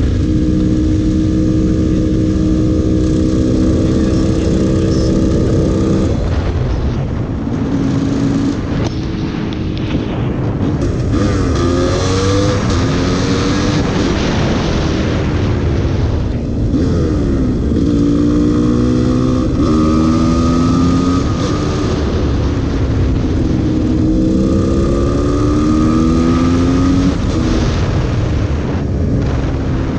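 GasGas EC300 supermoto's two-stroke single-cylinder engine under way on the road. Its pitch climbs as the bike accelerates and drops back at each shift or roll-off, several times over, with a steady rush of wind noise underneath.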